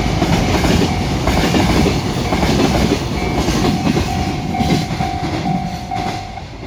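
Container freight train's wagons rolling past at speed, wheels clattering over the rail joints. A ringing tone sounds in short repeated pulses from about three seconds in. The rumble fades near the end as the last wagon goes by.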